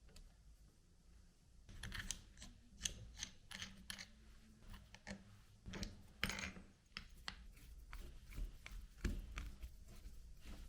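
Quiet, irregular clicks, taps and short scrapes from hands working on small parts, beginning about two seconds in.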